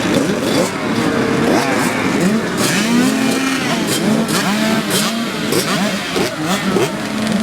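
Several small two-stroke youth motocross bikes racing, their engines revving up and down together in many overlapping rising and falling pitches.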